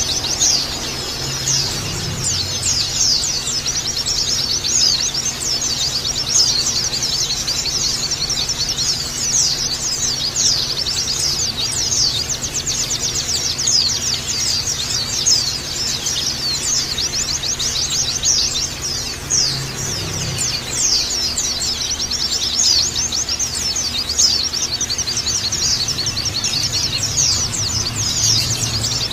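A flock of white-eyes (pleci) twittering together nonstop, a dense chatter of rapid, overlapping high chirps, over a faint steady low hum.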